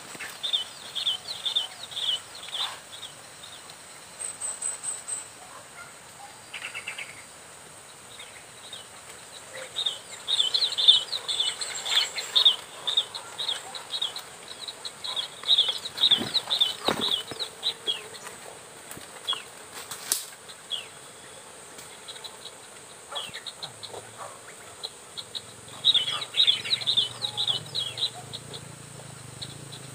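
Prinia (ciblek/prenjak) calling: fast runs of short, high chirps, repeated in three bouts with pauses between.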